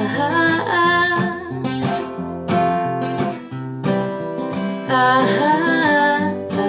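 Acoustic guitar strummed in steady chords, with a voice singing long held notes without words near the start and again about five seconds in.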